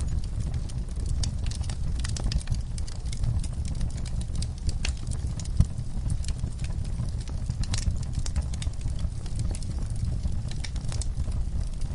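Wood fire in an outdoor fireplace crackling steadily: dense pops and snaps over a low rumble from the burning logs, with one sharper pop about halfway through.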